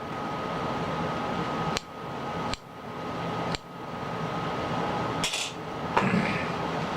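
Handling noise from small objects: three sharp clicks in the first few seconds, then a short hiss about five seconds in. Under it runs steady fan-like room noise with a faint steady tone.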